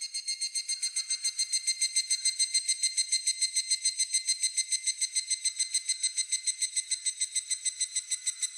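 Higurashi (evening cicada) calling: a long run of rapid, ringing, whistle-like pulses, about eight a second, swelling up over the first second.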